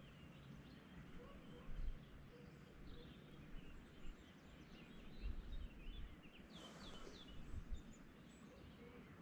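Faint birds chirping and twittering in short, scattered calls, with a busier flurry of quick downward-sweeping notes about six and a half to seven and a half seconds in, over a low rumbling background.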